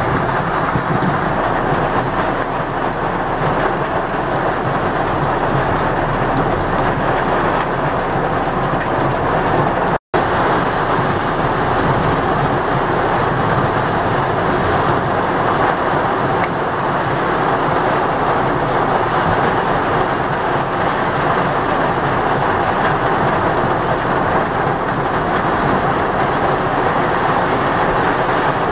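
Heavy rain falling steadily, with the sound cutting out briefly about ten seconds in.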